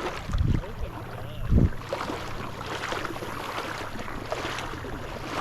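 Wind rumbling on the microphone over water sloshing in a marsh, with two heavy low thumps about half a second and a second and a half in.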